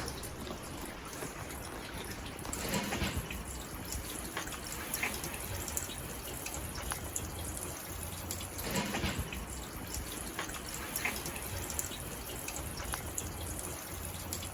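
Water running and dripping, a steady splashing trickle with small drips and two brief swells, about three seconds and nine seconds in.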